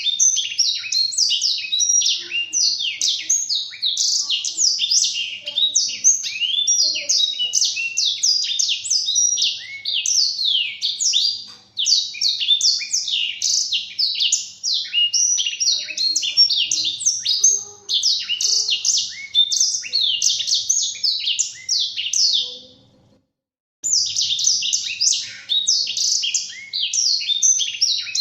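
Blackthroat (black-throated canary) singing a long, fast twittering song of rapid high chirps and trills, with a brief silence about five seconds before the end, after which the song resumes.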